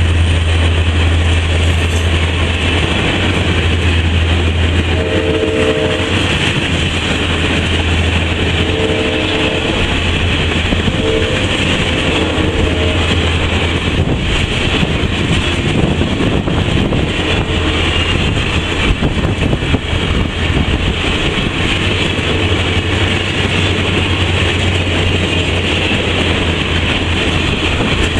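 A long train of railcars rolling steadily past, with wheels clattering on the rails over a constant low rumble. Faint short horn blasts sound a few times between about five and thirteen seconds in.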